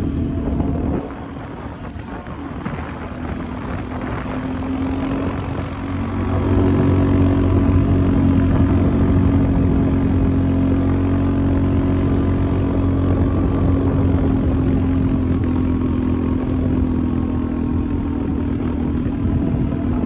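Quad bike engine running steadily while riding. It drops back about a second in and builds up again about six seconds in, then holds steady.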